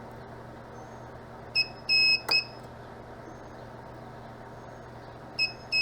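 Mini spot welder beeping as its probes meet the nickel strip, a short beep then a longer one, then firing a weld pulse with a sharp snap and a last short beep, about two seconds in. The same beep-and-snap sequence starts again near the end, over a steady low hum.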